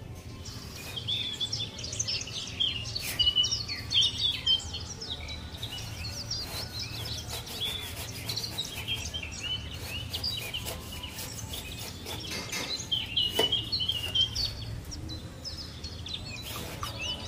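Small birds chirping and calling over and over in short high notes, over a steady low hum, with a few sharp knocks, the clearest about 13 seconds in.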